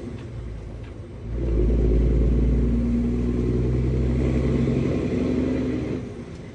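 International 9900 semi truck's diesel engine pulling under load, heard from the cab. The engine drops off for about a second at the start and again near the end, then picks back up: the lulls of manual gear changes.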